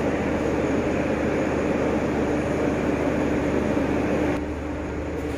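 Steady mechanical drone of a stationary passenger train at the platform, its machinery running with a constant low hum; it turns somewhat quieter a little past four seconds in.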